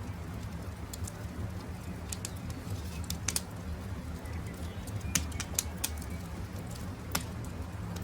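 Wood campfire crackling, with scattered sharp pops over a low steady rumble, and birds calling faintly in the background.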